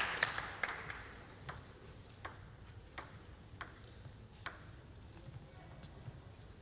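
Table tennis ball making about six sharp, light clicks, roughly one every three-quarters of a second, while the last of the crowd's applause fades out in the first second.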